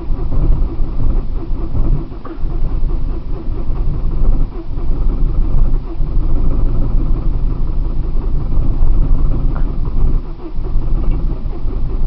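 1999 Saturn SC1's four-cylinder engine being cranked by its starter in the cold, turning over without catching, with a few brief breaks in the cranking. The owner thinks the hard cold start might be partly down to a fuel filter that needs replacing, since in these Saturns the filter regulates fuel pressure.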